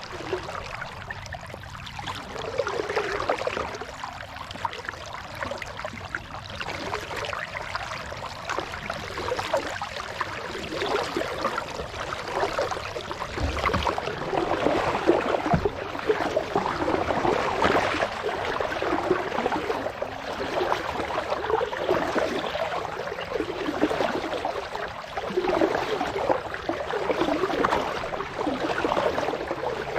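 Kayak paddling: water splashing and trickling off the paddle, swelling and fading with each stroke every second or two. Two dull low knocks come about halfway through.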